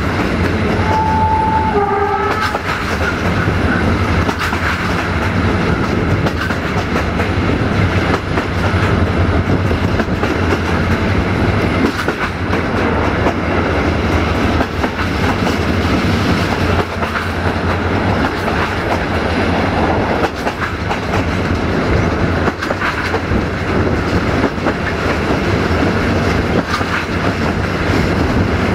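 Passenger train running, heard from aboard: a steady rumble with wheel clatter over the rail joints. About a second in, a train horn sounds briefly and drops in pitch.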